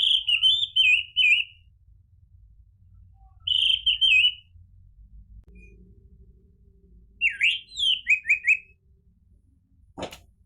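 Orange-headed thrush singing: three short, rapid phrases of varied whistled notes a few seconds apart. A sharp click comes near the end.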